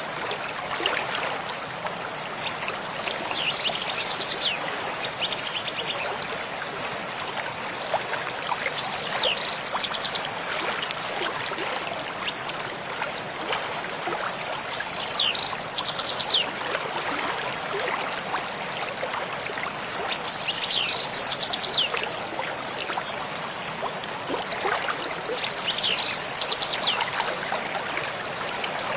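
Mountain stream flowing with a steady rush. Over it, a songbird sings the same short, high phrase five times, about every six seconds.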